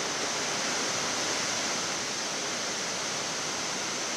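Steady rushing hiss of air in a Boeing 787 flight deck in flight: airflow and ventilation noise, even and unbroken.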